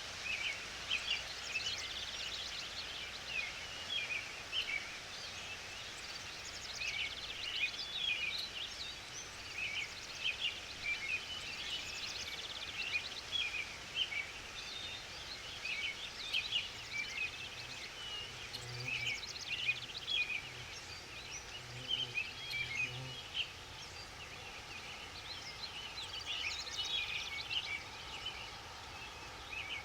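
Small wild birds chirping and calling continuously, many short high notes overlapping, over a steady background hiss of the forest. A few short low notes sound around the middle.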